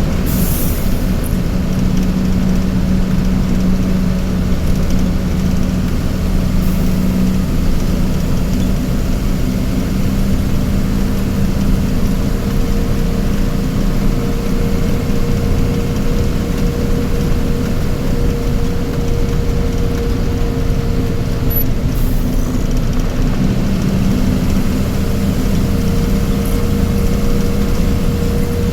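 A vehicle engine running steadily, a constant low drone with a steady higher tone joining about ten seconds in.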